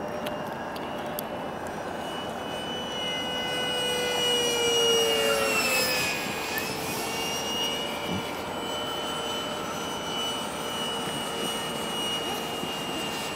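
Radio-controlled F-22 model jet making a slow, close pass: a steady high whine that grows louder, drops in pitch as the jet goes by about six seconds in, then carries on a little fainter.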